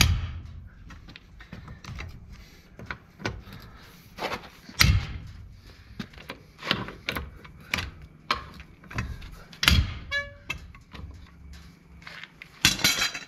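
Irregular metal knocks and clinks of hand tools working on a van's brake assembly during a brake repair. A brief ringing tone about ten seconds in, and a cluster of loud knocks near the end.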